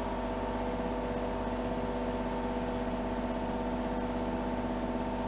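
Kubota mini excavator's diesel engine running steadily, a constant even hum with no change in pitch while the machine is worked.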